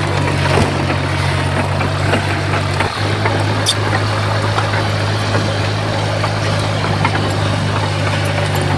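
Heavy earthmoving machine's diesel engine running at a steady, even speed, with scattered light clicks over the engine sound.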